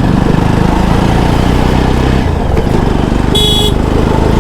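Jawa 42 motorcycle's single-cylinder engine running steadily while riding, with a short horn beep about three seconds in.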